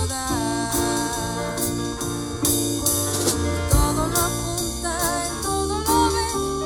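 Live band playing a song, with guitar and drums and a lead melody line that bends in pitch.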